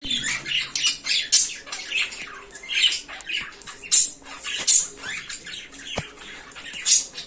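Cockatiel giving a rapid run of harsh, scratchy squawks, several of them louder screeches. A single sharp click sounds near the end.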